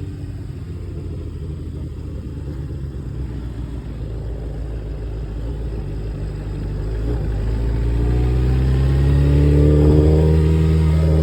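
Kawasaki Ninja sport bike engine running after a tune-up. It holds steady at first, then grows louder with a rising pitch over the last few seconds.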